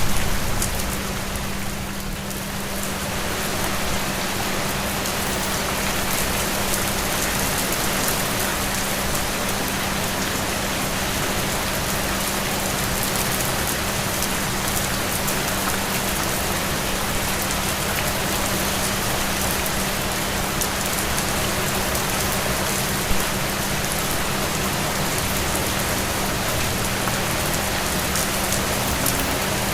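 Steady rain falling on a surface, an even hiss that holds level throughout, with a low steady hum underneath.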